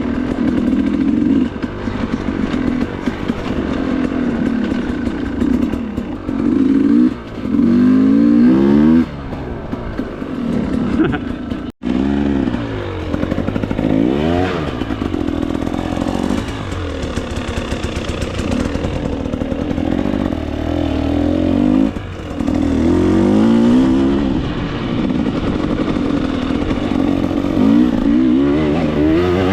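A 2024 KTM 300 XC-W's two-stroke single-cylinder engine revving up and falling back over and over while riding trail, with rattling from the bike. The sound drops out for an instant about twelve seconds in.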